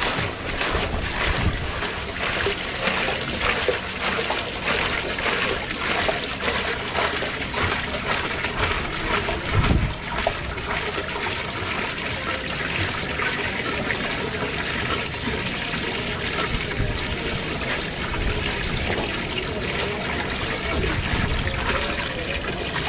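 Acid working on scrap metal, a steady trickling, fizzing hiss of liquid, with a dull knock about ten seconds in.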